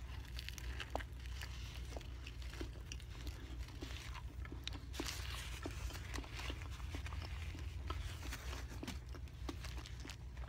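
Chewing a bite of a Subway Veggie Delight sub, heard as a scatter of small mouth clicks over a steady low hum.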